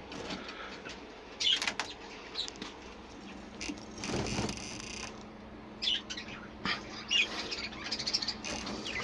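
Young budgerigars chirping and chattering in short scattered calls in an aviary flight, with a brief rustle of wing flapping about four seconds in.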